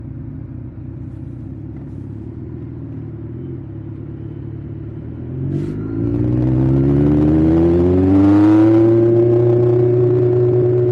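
Superbike engine rumbling low at idle, then with a click about halfway through it pulls away. The engine note climbs for a few seconds as the bike accelerates, then holds steady at a higher pitch.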